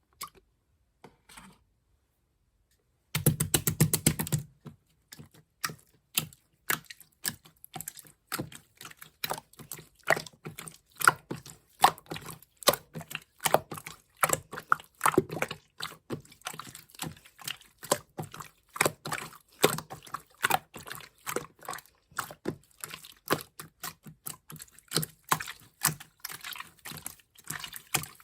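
Slime being squeezed and pressed by hand, making rapid sticky clicks and wet pops several times a second. It starts about three seconds in with a dense run of clicks.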